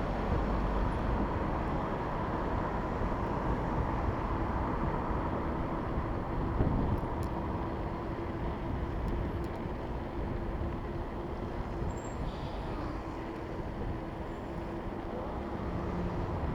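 Road traffic noise heard from a moving bicycle in city traffic, with a steady hum running underneath. A brief knock comes about six and a half seconds in.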